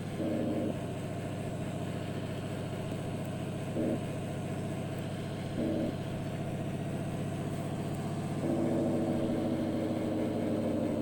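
Truck engine running steadily, with an even pulsing drone; a second, louder layer of the drone comes in briefly a few times and holds for the last few seconds.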